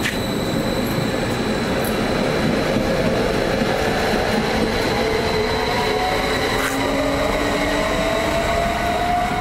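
Electric passenger train pulling away along the platform: a steady rumble of wheels on track, with a motor whine that slowly rises in pitch as it gathers speed.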